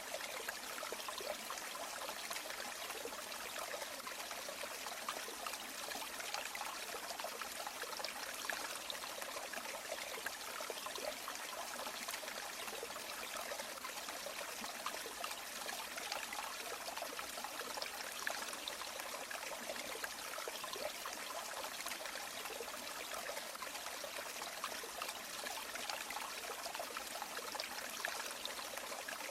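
River water flowing and trickling in a steady, even rush of splashing and bubbling.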